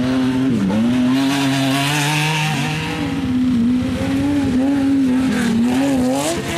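Off-road race vehicle's engine running hard, its pitch rising and dipping again and again as the throttle comes on and off.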